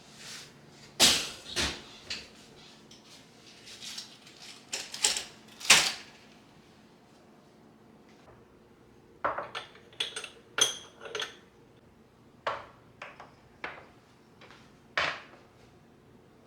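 Dishes and kitchenware being handled, giving irregular clinks and knocks, some of them ringing briefly.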